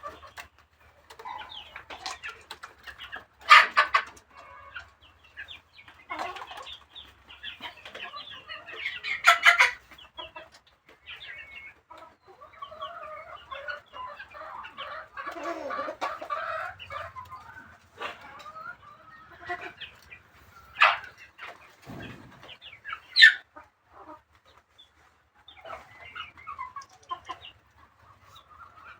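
Fowl clucking and calling in short, irregular bursts, with a few louder calls scattered through.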